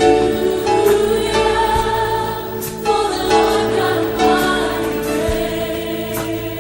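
Live church worship music: a group of voices singing a hymn over sustained instrumental chords.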